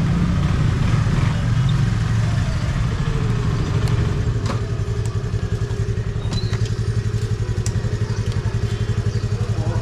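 Motorcycle engine running at low, steady revs with an even throb, with a few light clicks over it.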